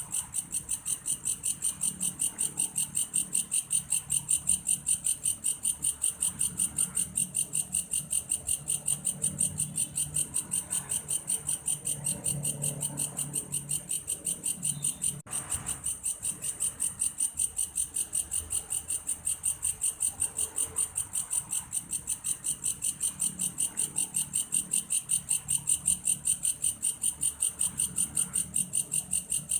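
Belalang kayu insect stridulating in a fast, even, high-pitched pulsing of about four chirps a second, much like a cricket. The chirping breaks off for an instant about halfway through.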